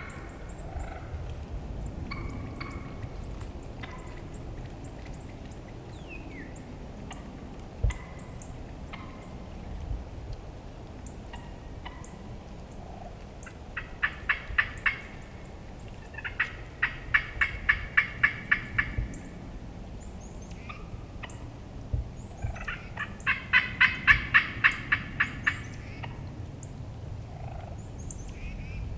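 Turkey calling: three loud, rapid series of rasping yelps, about four notes a second, each series lasting two to three seconds, starting about halfway in. Faint songbird chirps sound between them.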